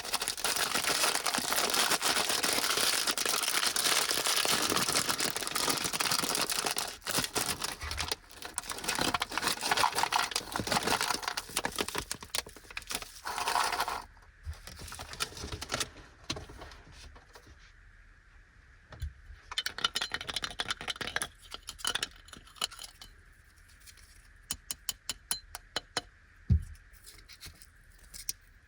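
Plastic snack wrappers crinkling and tearing for about the first fourteen seconds, then sparse light clicks and taps as small pieces are handled, with a quick run of light clicks near the end.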